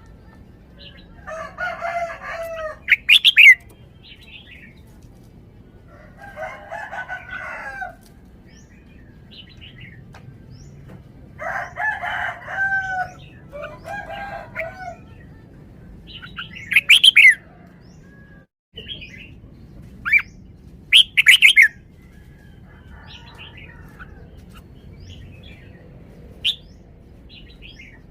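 Red-whiskered bulbul singing: short warbled phrases repeated every few seconds, broken by a few sharp, loud whistled notes.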